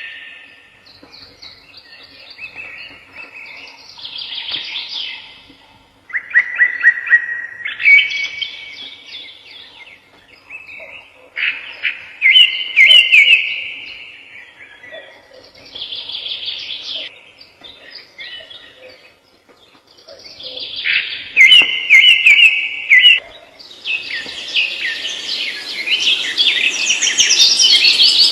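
Songbirds singing: bouts of rapid chirps and trills separated by short pauses, growing denser and higher-pitched near the end.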